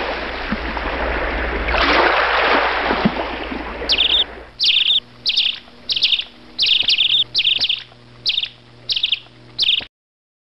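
Bird chirping: a short, bright call repeated about ten times at an even pace. It follows a few seconds of steady rushing noise like surf, and it all cuts off abruptly near the end.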